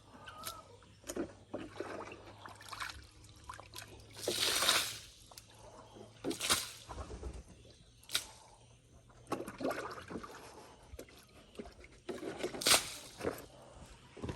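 Water being scooped out of a container and poured away in a series of separate sloshes and splashes, the longest pour about four seconds in.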